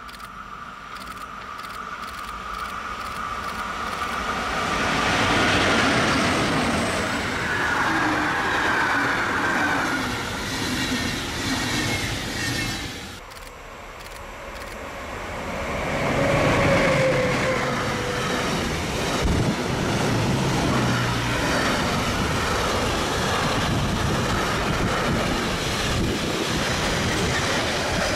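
Electric trains passing on a double-track line: a first train swells past and fades, then an electric locomotive hauling a long intermodal freight train comes by close, with a short falling whine as it passes, and its wagons keep rolling by with a steady rumble and clatter of wheels over the rails.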